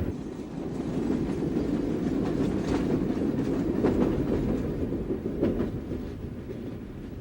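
Freight train rolling past, its wheels clicking over the rail joints a few times, the sound fading away near the end.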